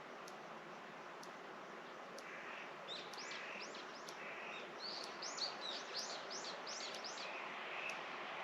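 A songbird sings a fast series of high, downward-sweeping chirps, about three a second, starting about three seconds in and lasting several seconds, over a steady outdoor hiss.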